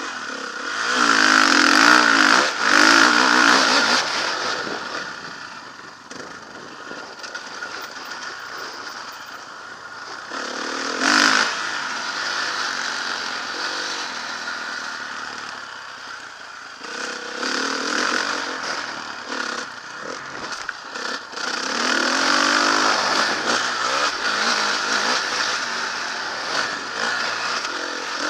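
Motocross bike engine revving up and falling off again and again as it is ridden. The loudest surges come about one to four seconds in, with more through the rest.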